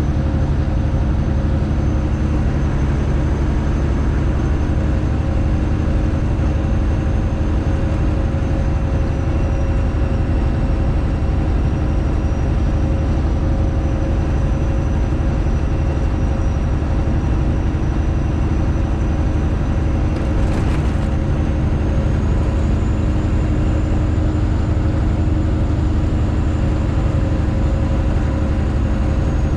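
Straight-piped Detroit Diesel Series 60 inline-six in a Freightliner Classic XL truck, running loud and steady at an even engine speed under way. A brief faint click about two-thirds of the way in.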